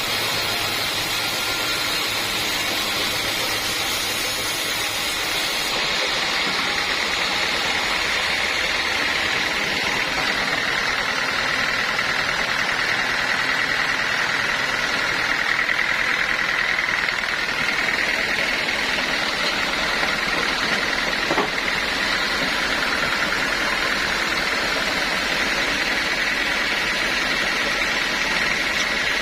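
Sawmill machinery running steadily: a constant motor noise with a high whine that grows stronger about ten seconds in.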